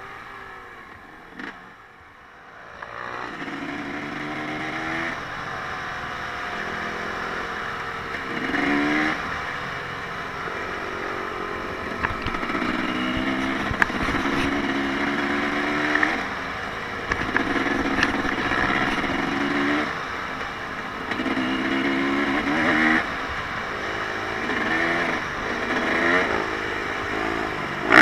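Off-road vehicle engine revving up and down over and over as it rides, the pitch climbing and dropping every couple of seconds. It is faint at first and grows louder about three seconds in.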